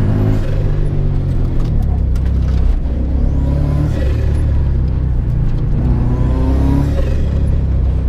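Volkswagen Superbug's engine heard from inside the cabin, driven hard through a timed run. Its revs dip about two seconds in and climb again near the end.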